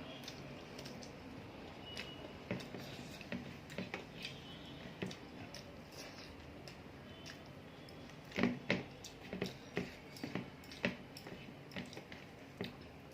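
Close-up eating sounds: irregular small wet clicks and smacks of chewing and handling food, more frequent and louder in the second half.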